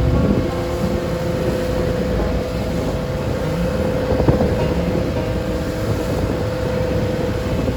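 Engine of a wooden passenger boat running at a steady drone under way, mixed with wind noise on the microphone.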